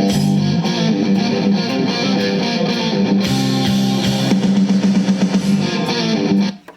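Music playing from a CD through the Samsung PCD 720 boombox's speakers during a playback test, showing the repaired unit's CD player works. It cuts off suddenly near the end as playback is stopped.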